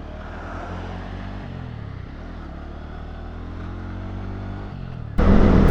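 Motorcycle engine, the Lifan K19 cruiser's, running steadily with gentle rises and falls in pitch. About five seconds in, it cuts abruptly to a much louder rush of wind and engine.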